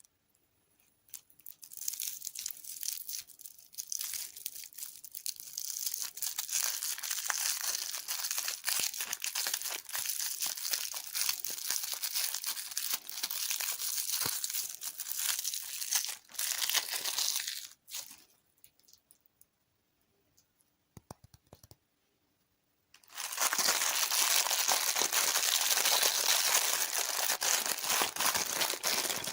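Crinkly plastic candy or dessert packaging being handled and torn open, a dense crackling rustle with many small clicks. It comes in two long stretches, with a pause of a few seconds after the first.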